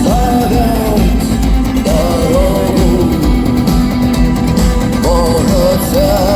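Rock band playing at full volume: drums, bass and guitars under a wavering melody line, with no lyrics sung.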